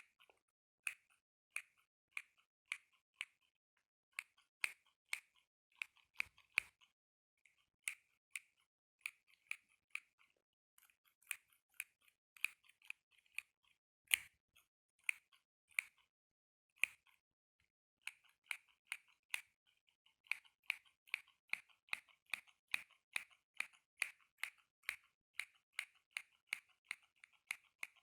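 ASMR tapping: fingertips or nails knocking on a hard object in a series of sharp, crisp taps. They come about two a second at first, then quicker and more even, three to four a second, from about two-thirds of the way through.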